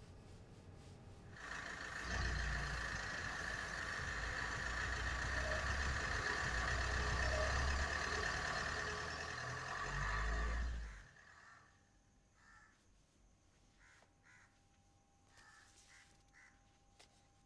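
Car engine running as a Maruti Suzuki Ertiga moves in the driveway, with a low rumble and a steady higher tone. It starts about a second and a half in and cuts away quickly about eleven seconds in, leaving faint background sound.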